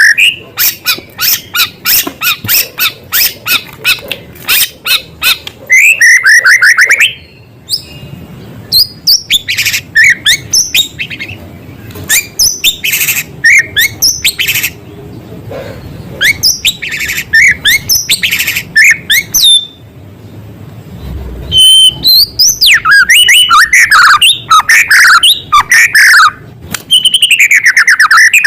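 White-rumped shama (murai batu) in full loud song: rapid runs of high chirps, trills and slurred whistles that mimic the calls of small birds, broken by short pauses about seven and twenty seconds in.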